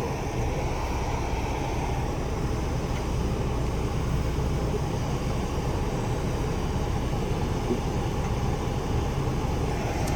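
A car's engine and tyres giving a steady low rumble as it is driven slowly into a parking spot.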